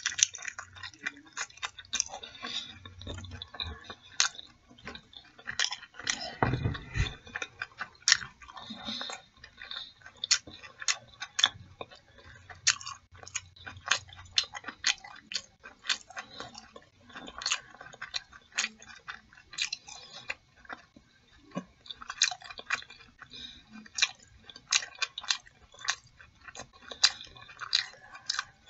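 A person chewing chicken in mumbo sauce close to the microphone: a long run of sharp mouth clicks and smacks. There is a dull low thump about six and a half seconds in.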